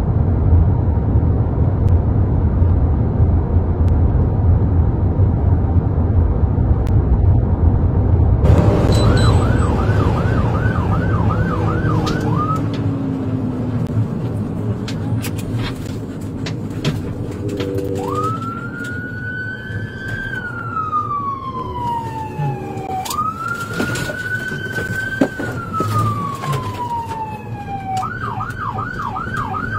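Police car siren: after several seconds of heavy low road rumble, it comes on in a fast yelp about nine seconds in, changes to two slow rising-and-falling wails, and goes back to the fast yelp near the end.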